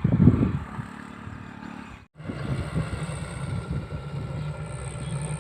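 Rice combine harvester running steadily, with a low engine note and a high whine. The sound is loud and irregular for the first half-second, and there is a brief break about two seconds in.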